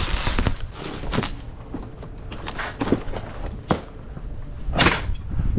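Scattered knocks, thumps and rustles of cases of bottled soda pop being handled and stacked, with a short rush of noise at the start and another near the end.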